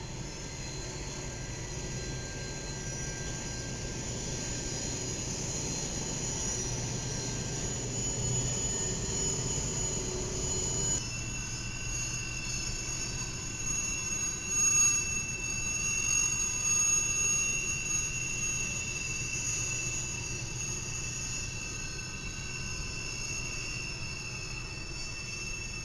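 Train rolling through a tight curve: a steady low rumble under high-pitched steel wheel squeal. The squeal holds several sustained pitches that shift suddenly about eleven seconds in.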